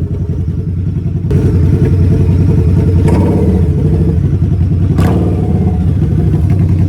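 Harley-Davidson V-Rod's V-twin engine running, getting louder about a second in, with a couple of short clatters over it.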